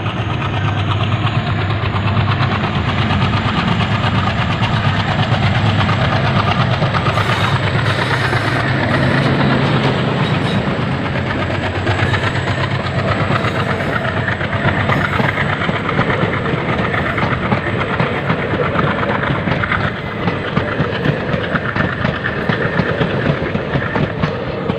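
Passenger train running past close by at speed. A strong low drone comes first as the locomotive arrives, then the steady rush of the coaches. The wheels clack over the rail joints, sharper and more distinct over the last few seconds.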